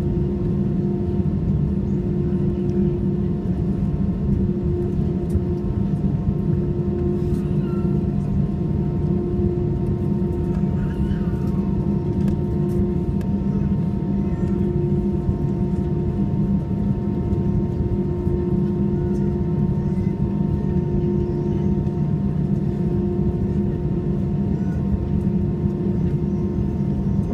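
Steady cabin hum of an Airbus A320 with its jet engines at low power, heard from a passenger seat: an even low drone with a few steady tones on top, not yet spooling up for the takeoff roll.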